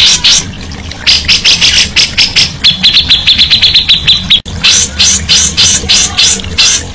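A songbird sings loud, rapid runs of short high chirps, with a fast trill about three seconds in. The song breaks off abruptly at an edit about four and a half seconds in, then resumes. A steady low hum runs underneath.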